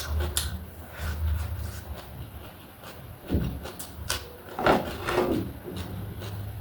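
Close-up eating sounds: chewing and mouth noises with scattered small clicks, and two louder bursts about three and a half and five seconds in.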